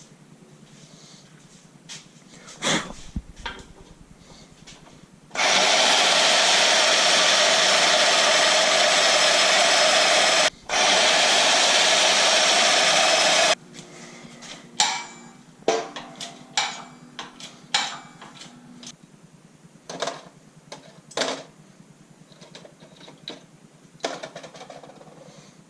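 A shop tool runs loudly and steadily for about eight seconds, stopping briefly once partway through. It is surrounded by scattered metallic clinks and taps as engine parts are handled.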